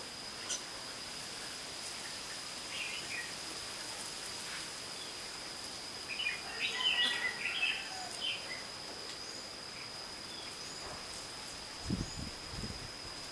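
Red-whiskered bulbul calling in short chirps, a brief call about 3 s in and a longer, louder run of chirps around the middle. A steady high-pitched whine runs underneath, and a few low thumps come near the end.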